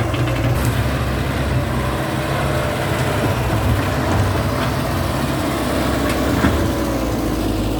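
CAT 312D hydraulic excavator's diesel engine running steadily under working load, with a wavering whine over the engine note and a few faint cracks.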